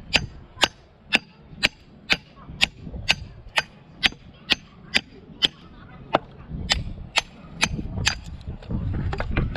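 Knife being batoned through firewood: a wooden baton knocks on the blade's spine about twice a second in a steady rhythm, with a short pause in the middle, and stops about eight seconds in.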